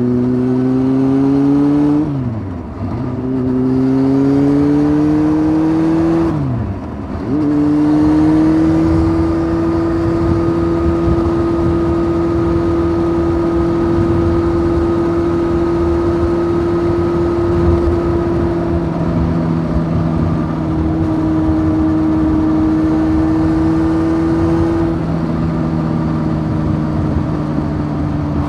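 Honda CBF 600 motorcycle's inline-four engine through a titanium sport exhaust, pulling with rising revs and shifting up twice, about two and six seconds in; each shift is a quick drop in pitch and level. It then holds steady revs while cruising.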